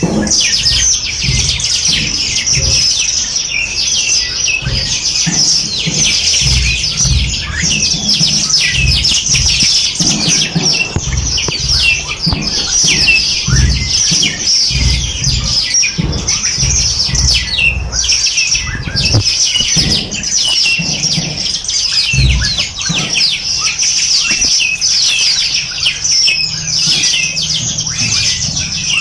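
A dense chorus of many small songbirds chirping and trilling at once, with quick high notes overlapping without a break. An uneven low rumble comes and goes underneath.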